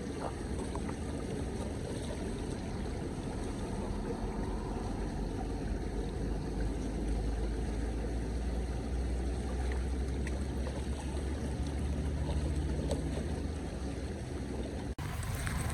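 Steady rush of floodwater, with a low rumble of wind on the microphone. The sound drops out for an instant about fifteen seconds in, where the recording cuts.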